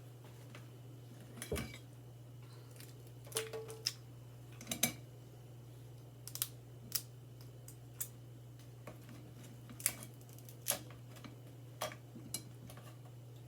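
Irregular sharp clicks and clacks of food being handled in a kitchen, a dozen or so, with a couple of louder clusters, over a steady low hum.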